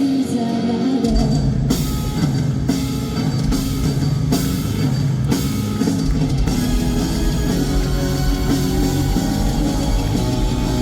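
Live rock band playing loudly on a PA. Electric guitar is joined about a second in by bass and drum kit, with cymbal crashes over the next few seconds.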